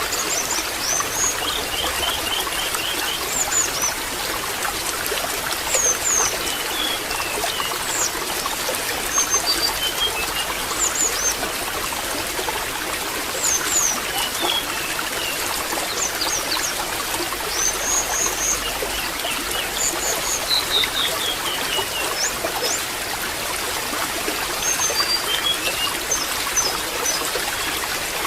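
Water trickling steadily, with small birds chirping in short high calls over it, scattered throughout.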